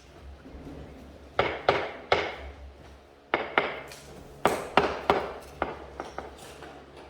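Sharp knocks struck in quick groups of two or three, about ten in all, like hammer or mallet blows on a hard material.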